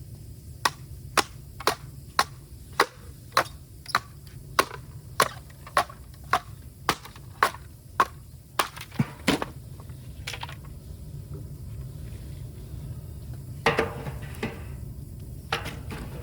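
Bamboo being split with repeated blows: sharp knocks about twice a second for some nine seconds, then two longer cracking splits near the end.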